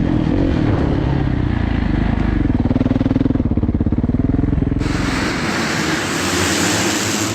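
Motocross bike engine running and revving, its pitch rising and falling. About five seconds in, a loud steady hiss joins it and stops abruptly near the end.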